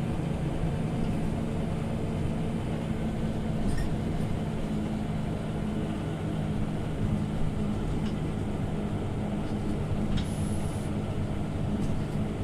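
Scania OmniLink CL94UB city bus driving at steady speed, heard from inside the cabin: a constant low engine hum with road noise. There is a short high rattle about four seconds in and another, with a thin squeak, around ten seconds.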